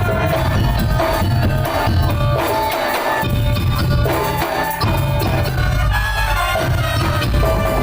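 Madurese daul (tong-tong) ensemble playing: drums with a heavy bass under a melodic line, in a steady rhythm.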